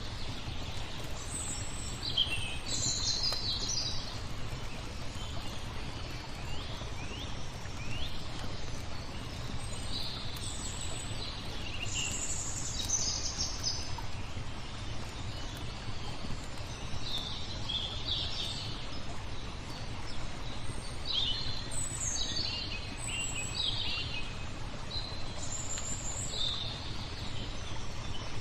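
Songbirds chirping and singing in short phrases, a new phrase every second or two, over a steady low rush of flowing water. Faint fire crackles come through now and then.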